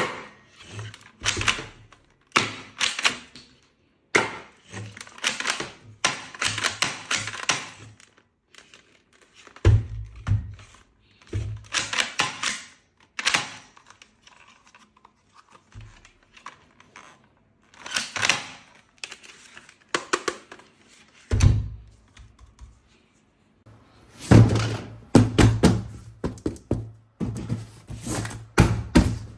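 Toy guns and their packaging being handled: irregular clicks, knocks and short rustles, with a few heavier thuds partway through and a dense run of knocks near the end.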